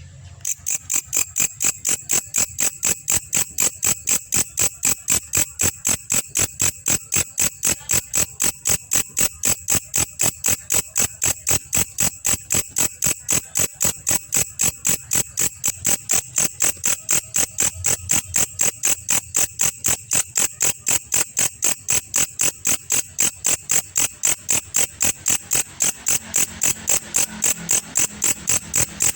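Belalang kecek katydid calling: a steady, rhythmic series of sharp, high-pitched ticks, about three a second.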